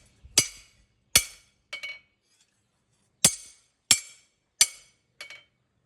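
Light hammer taps on steel, each a sharp metallic clink that rings briefly. There are three strikes in the first two seconds, a pause, then four more about two-thirds of a second apart.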